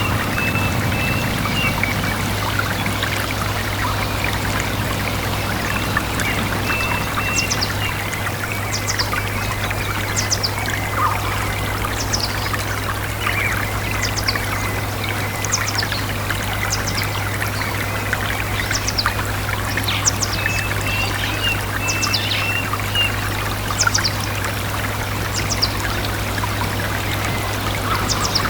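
A stream running steadily, with birds calling over it: short high downward chirps repeating about once a second, and now and then a string of lower notes. A steady low hum runs underneath.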